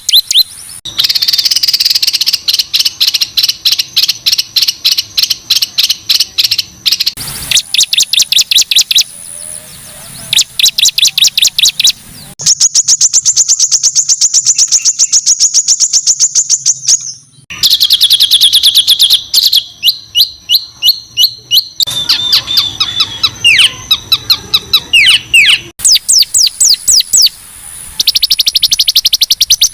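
Songbird masteran recording: rapid runs of harsh, high-pitched repeated notes, the 'tembakan kasar' style of song. The runs switch abruptly between different phrases every few seconds, with one long unbroken trill near the middle.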